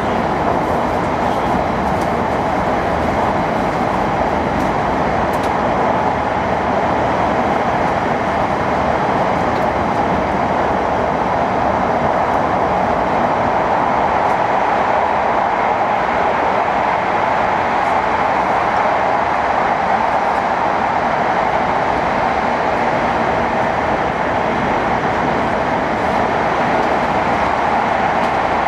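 Hokkaido Shinkansen train running at speed, heard from inside the passenger car: a steady rumble and rushing noise.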